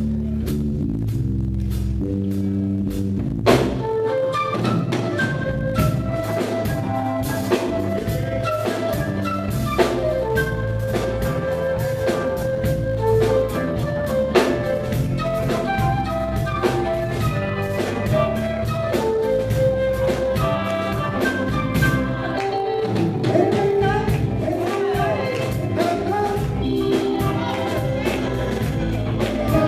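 Band music in a gospel style, with a drum kit keeping a steady beat under a bass line and sustained melody notes. The full band comes in about three and a half seconds in.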